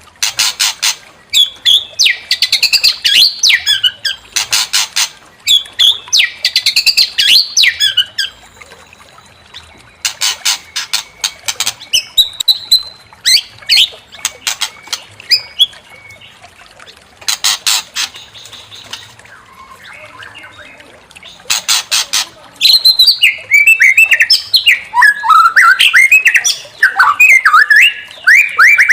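White-rumped shama singing: bursts of rapid rattling notes alternate with quick whistled phrases, with a quieter lull in the middle. A loud, unbroken run of varied whistles starts about three-quarters of the way in.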